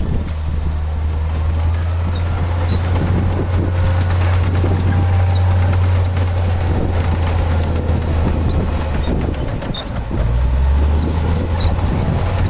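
Heavy diesel engine of earthmoving equipment running steadily under load, its low note dipping and shifting briefly around ten seconds in before picking up again, with faint high chirps over it.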